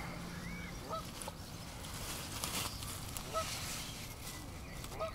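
Short, faint bird calls, one about every second or so, over soft rustling and ticking of a landing net and unhooking mat as a large catfish is handled.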